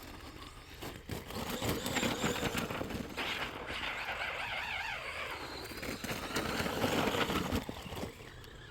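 Arrma Big Rock RC truck driving through snow, its electric motor whining up and down with the throttle over the sound of the tires churning snow, from about a second in until near the end.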